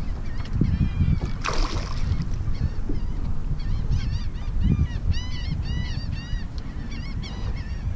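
Birds calling, a run of short, high calls that rise and fall, several a second, with a few low thumps underneath.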